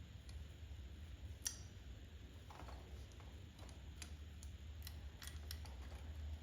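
Light clicks and taps of small carburetor parts and hand tools being handled on a workbench. The sharpest comes about one and a half seconds in, with a cluster of clicks in the second half. A low, steady hum runs underneath.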